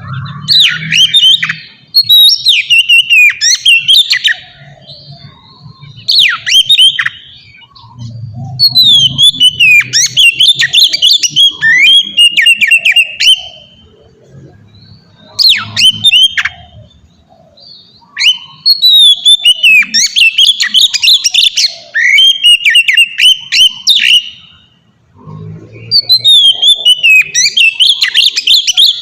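Oriental magpie-robin (kacer) singing loud, full song: bouts of a few seconds of fast, varied whistles and chattering phrases, broken by short pauses.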